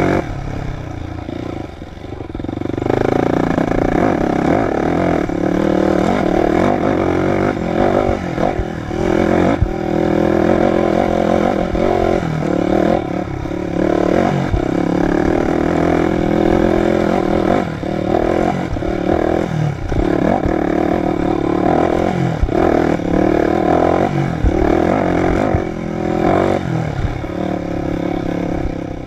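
Dirt bike engine revving up and down as it is ridden over rough trail, the revs rising and falling every second or two and dropping off about two seconds in. Scattered knocks and rattles from the bike run through it.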